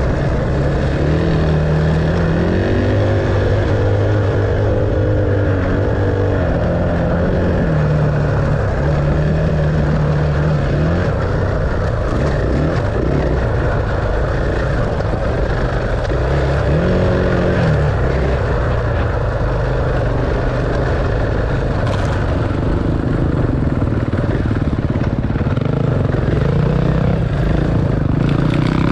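Dirt bike engine running under way, its revs rising and falling as it is ridden, over a steady rushing noise.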